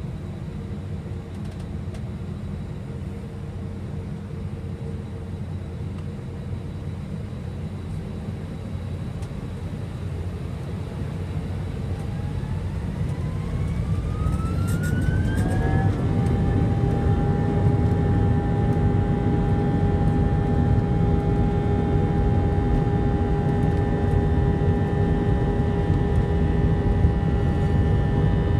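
Airbus A319 jet engines heard from inside the cabin spooling up to takeoff thrust: over a steady low rumble, a whine rises in pitch for a few seconds about halfway through, then holds as a steady multi-tone whine while the rumble grows louder, the start of the takeoff roll.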